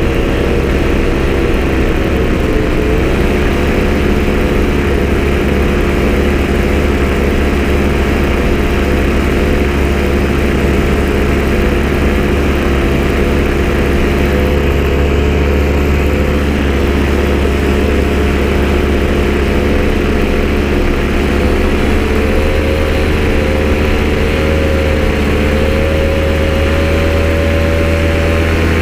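Vehicle engine running steadily at a fast idle, loud and unbroken. Its pitch drops about three seconds in and rises slightly later on.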